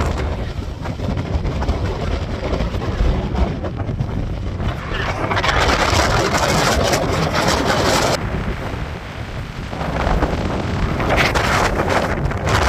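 Strong wind buffeting the microphone: a constant low rumble with rushing gusts that swell, one stopping abruptly about eight seconds in and another building near the end.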